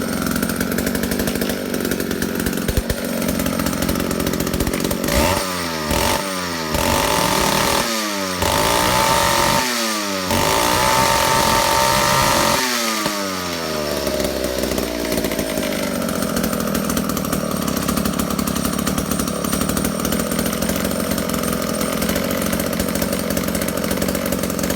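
McCulloch 1-43 chainsaw's two-stroke engine idling, then revved several times in the middle, each rev dropping back down, one held high for a couple of seconds, before it settles back to a steady idle. This is a test run after a carburettor rebuild.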